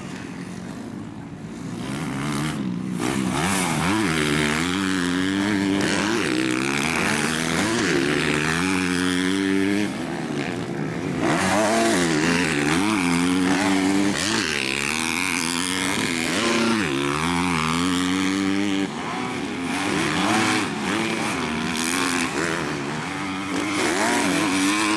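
Several 250 cc grasstrack racing motorcycles running around the track, their engines revving up and down over and over, getting louder about two seconds in.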